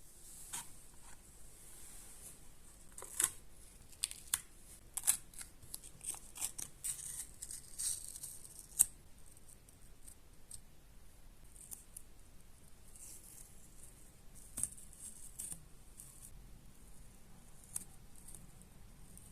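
Handwork sounds: irregular sharp clicks and snips with a hissy cutting or tearing noise, busiest in the first nine seconds and sparser after that.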